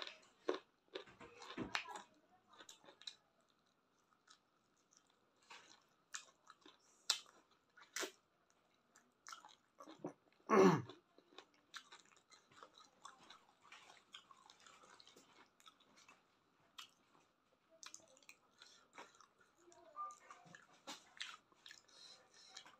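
Close-up mouth sounds of someone eating chicken feet with rice: chewing, biting and wet lip smacks as short irregular clicks, with one louder, longer wet sound about ten seconds in.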